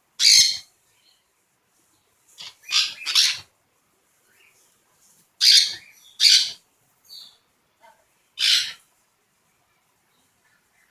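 A parrot squawking: about six loud, harsh, screeching calls in nine seconds, some in quick pairs, with short silences between them.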